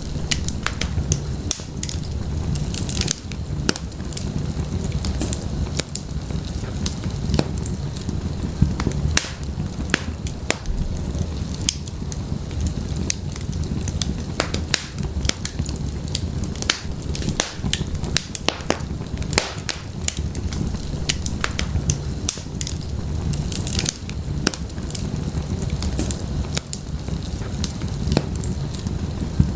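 Wood fire burning in a fireplace: a steady low rumble of flames with frequent sharp crackles and pops from the burning firewood.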